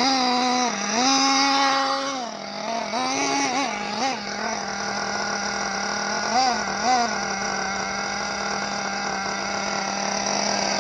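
Small nitro engine of a 1/8-scale RC buggy buzzing at a high pitch, the throttle blipped up and down several times in the first half, then held at a steady pitch.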